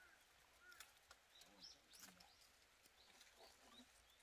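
Near silence, with a few faint, short, high bird chirps scattered through it.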